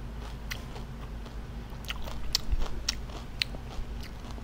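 A person chewing a crispy fried shrimp spring roll (chả ram tôm) close to the microphone, with a cluster of crisp crunches between about two and three and a half seconds in.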